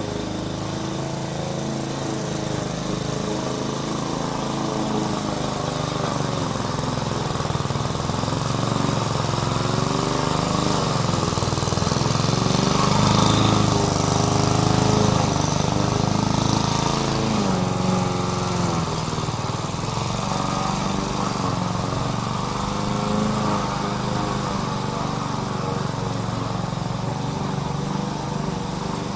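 Small petrol engine of a bladeless grass-cutting machine running continuously, its speed rising and falling over and over, loudest around the middle.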